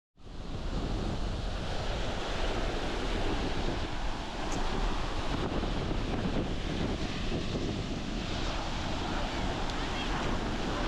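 Ocean surf breaking and washing on a beach under strong wind, with wind buffeting the microphone in a steady low rumble.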